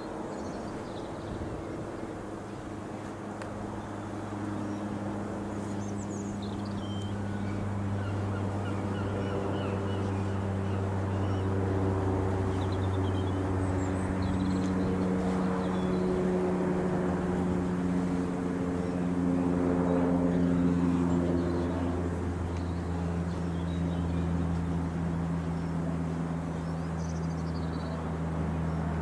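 De Havilland Canada DHC-6-300 Twin Otter's twin PT6A turboprops flying over: a steady propeller drone that grows louder to a peak about twenty seconds in, its pitch sinking a little as it passes.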